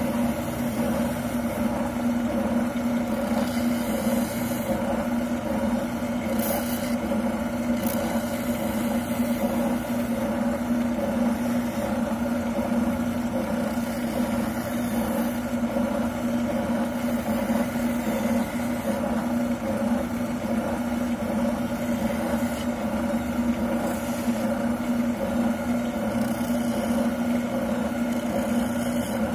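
Wilton oscillating sander running steadily with a constant motor hum as a shotgun stock's buttplate is sanded down to fit.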